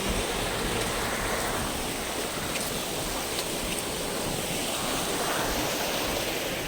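Steady rushing noise of a fast-flowing hill stream running in spate.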